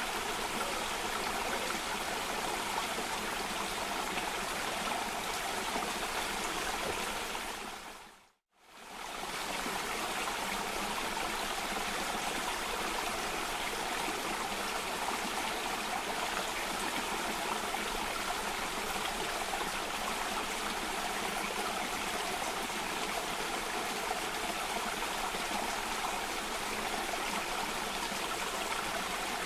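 Running water of a cascading stream, a steady even rush. About eight seconds in it fades out to silence for a moment and fades straight back in.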